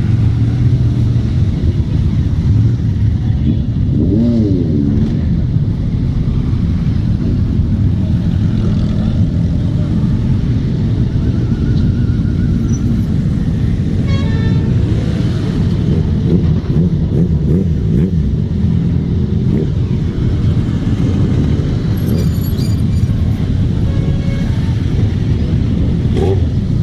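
Many motorcycle engines running together as a group ride sets off, a steady low rumble, with a horn toot now and then.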